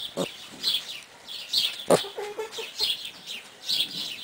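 A bird chirping: short, high chirps repeating about twice a second. A single sharp knock sounds about two seconds in.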